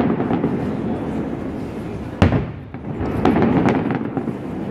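Fireworks display: shells bursting with a continuous rumble, one sharp bang a little over two seconds in, then a quick cluster of crackling pops.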